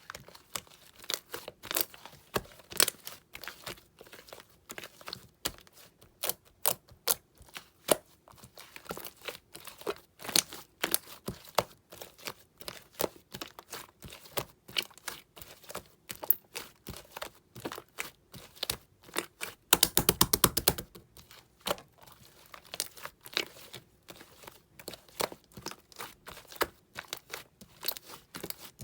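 Clay slime being pressed, stretched and folded by hand, making an irregular string of sticky clicks and small pops, with a fast run of crackling pops about twenty seconds in.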